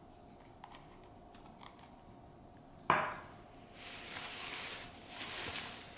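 Quiet handling with faint clicks, then a sharp knock just before halfway through. After that comes a steady rustle of shredded-newspaper packing, as a potted plant is lifted out of its box.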